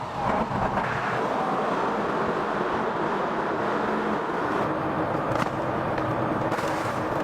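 Steady running noise of a motor vehicle engine, without pauses or sudden knocks.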